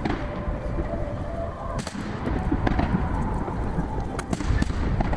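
Aerial fireworks shells bursting about 800 m off, a continuous rumble of booms and echoes with sharp cracks about two seconds in and several more around four seconds in. The recording runs at triple speed, so the bursts come packed close together.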